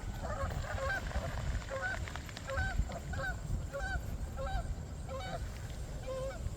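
A flock of Canada geese honking, many short calls a second overlapping one another, over a steady low rumble.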